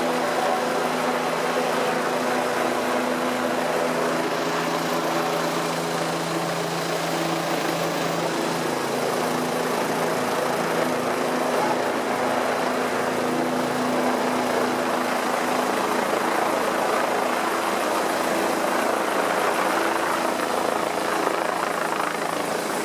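Rescue helicopter's engine and rotor hum over a steady rushing noise, the hum clearest in the first several seconds and then fading.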